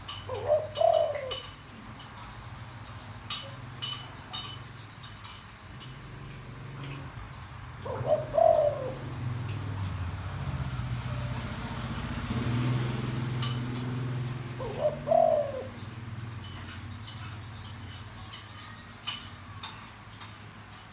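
Spotted dove giving a deep coo three times, about seven seconds apart: the call used to rouse a decoy dove into singing. A low hum rises and fades between the second and third calls.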